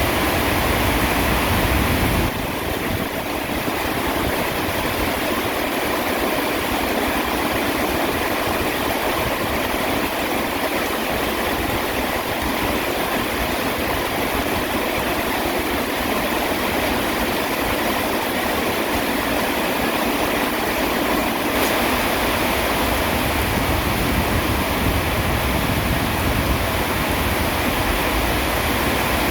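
Steady heavy rainfall, a dense even hiss. A low rumble underneath drops away about two seconds in.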